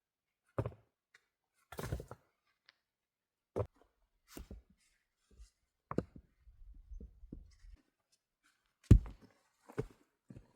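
Irregular knocks and thuds, about seven in all, spaced a second or more apart, with the loudest, deepest thud about nine seconds in.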